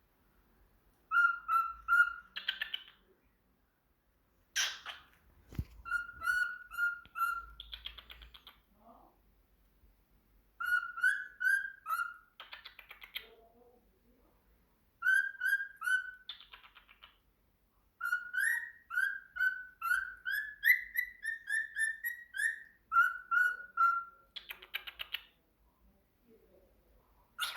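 Pet budgie chirping: short runs of quick, repeated whistled notes in phrases of a second or several seconds, with pauses between them.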